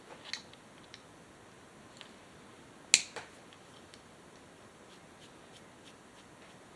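A few light clicks and taps from small parts and tools being handled during bench work on a chainsaw, with one sharp, loud click about three seconds in followed by a softer one.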